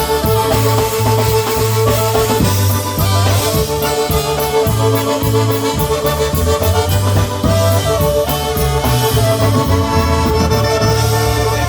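Live polka band playing an instrumental passage with no vocals: accordion melody over a steady pulsing bass line and drum kit with regular cymbal ticks.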